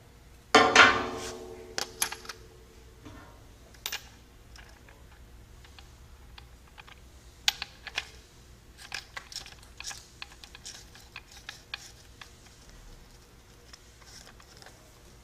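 A sharp metal clank about half a second in that rings on for a couple of seconds, followed by scattered light clicks and taps of metal tools and parts being handled.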